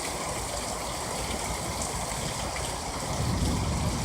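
Heavy rain pouring down in a thunderstorm, a steady rushing hiss. A low rumble swells about three seconds in.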